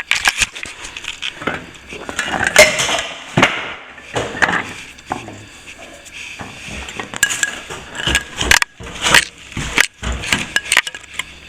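Steel hand scraper raking and chipping old plaster out of a crack at the wall–ceiling joint: irregular scrapes and sharp clicks, with bits of plaster breaking away.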